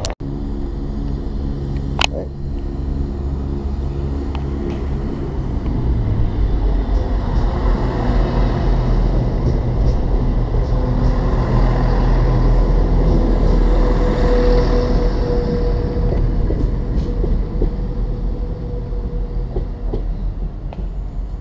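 Diesel multiple-unit passenger train running past close by along the platform, a steady engine hum giving way to a rising rumble of wheels on rail that is loudest about halfway through, then fades. A thin wheel squeal comes about two-thirds of the way through.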